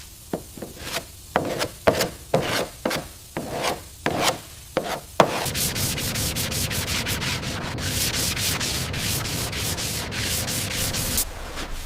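Sanding strokes: about a dozen separate strokes over the first five seconds, then a faster unbroken run of strokes that stops about a second before the end.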